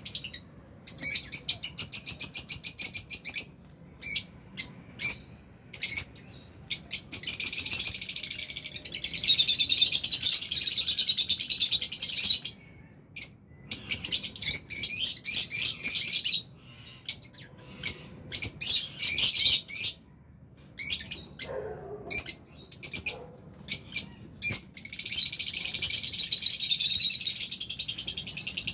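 A flock of lovebirds chirping and chattering: runs of rapid, high-pitched twittering lasting several seconds, broken by short pauses and single sharp chirps.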